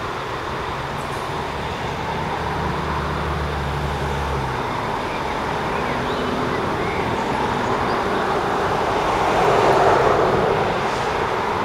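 Windhoff electrification train's diesel engine running with a steady rumble, a low hum that stops about four and a half seconds in, and a swell of louder rumbling near the end.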